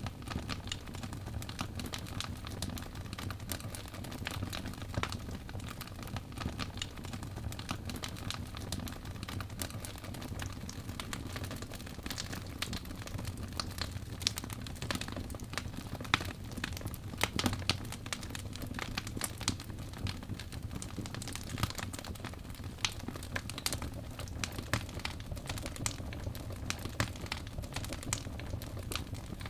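Wood fire crackling and popping: a steady low rumble of flames with dense, irregular sharp snaps, a few louder pops around the middle.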